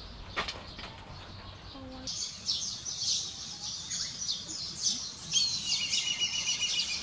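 Birds chirping: a dense run of high chirps begins about two seconds in, and a rapid trill joins about two seconds later.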